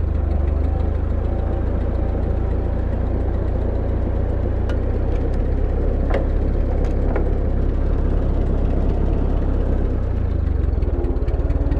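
Ford 9N tractor's four-cylinder flathead engine running steadily at low speed, with a few light clicks about halfway through.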